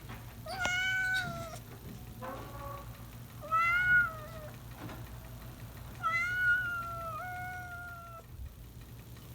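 Domestic cat meowing four times: three clear meows and a fainter short one between the first two, the last meow long, about two seconds, with a small step in pitch partway through.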